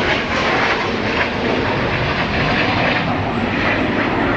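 Red Arrows BAE Hawk T1 jets flying overhead during a display, their jet engine noise loud and steady.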